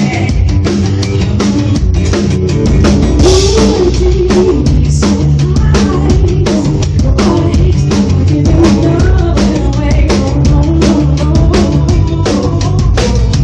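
Live band playing an instrumental passage with no vocals: a drum kit drives a busy, steady beat of kick and snare over sustained bass notes.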